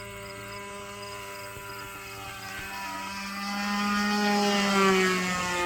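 Gas-engined radio-controlled model airplane running steadily, then growing louder and dropping in pitch as it passes close by, about five seconds in.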